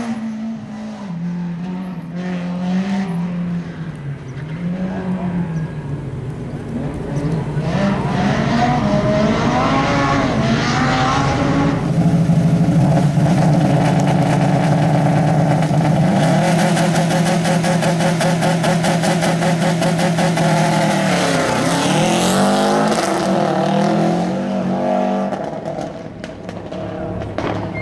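Rally car engines revving hard, the pitch climbing and dropping again and again through gear changes and throttle lifts. About twelve seconds in an engine holds steady high revs for roughly nine seconds, then revs up and down quickly again.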